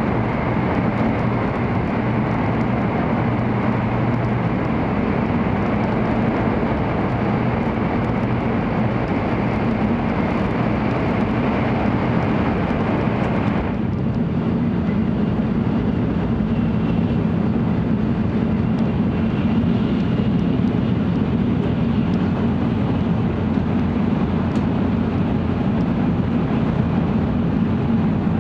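Cabin noise of an N700 series Shinkansen running at speed: a steady rumble with a low hum. About halfway through, the louder, brighter roar of running through a tunnel drops away suddenly as the train comes out into the open.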